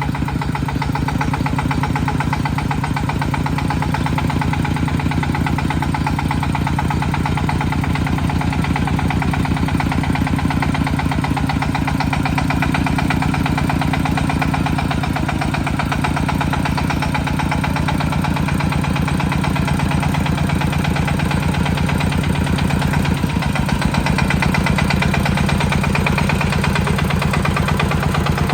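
Tractor engine running steadily with a rapid, even chugging; it gets a little louder in the last few seconds.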